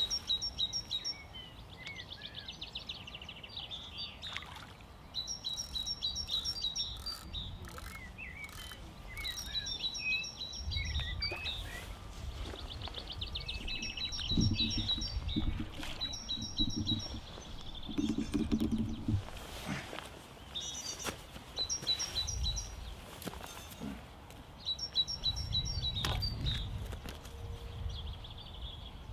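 A songbird singing a short, rapid, high trilled phrase, repeated every few seconds, over a low rumbling noise that comes and goes.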